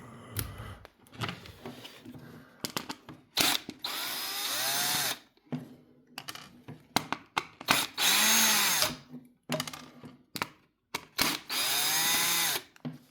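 A power drill-driver runs in three short bursts of about a second each, its motor whine rising and falling in pitch every time, as screws are driven out of the kettle's casing. Small clicks and knocks of handling come between the bursts.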